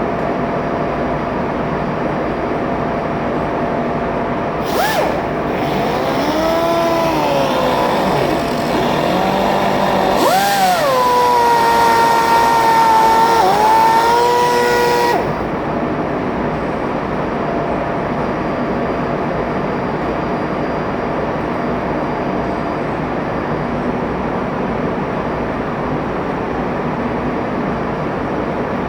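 Ship's main-engine fuel injector spraying on a test pump: a sudden hiss of atomised fuel with a high singing tone that swoops up and down, then holds steady before cutting off sharply. Behind it is the steady drone of engine-room machinery.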